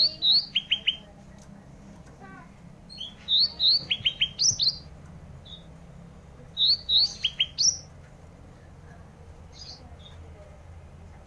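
A songbird of the kind Indonesian bird keepers call 'ranting' singing in loud repeated phrases. Each phrase is a few sharp upward-sliding chirps followed by a quick run of three or four short notes. The phrase comes three times with pauses between, over a faint steady low hum.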